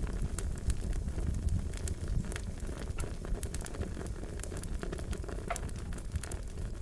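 Wood fire crackling: frequent sharp pops and snaps over a steady low rumble of flame.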